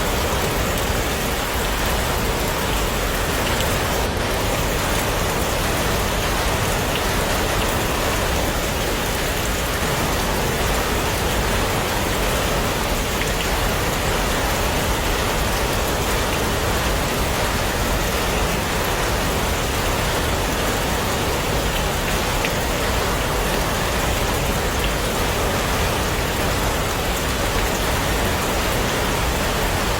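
Heavy rain falling steadily, a dense, unbroken hiss of drops on a surface.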